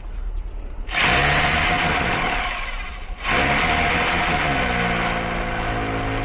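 Power drill running as it bores a fixing hole. It starts about a second in, stops briefly just after three seconds, then runs on steadily with a constant motor whine.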